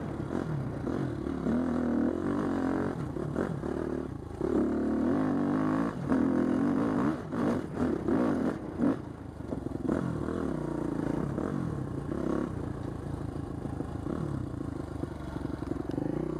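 Husqvarna TC250 dirt bike engine running under riding load, its pitch rising and falling as the throttle is worked. A cluster of clattering knocks comes about midway through.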